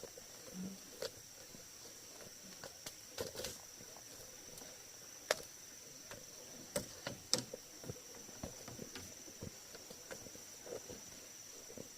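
Steady high-pitched drone of insects chirring, with scattered light clicks and knocks over it, the sharpest about five and seven seconds in.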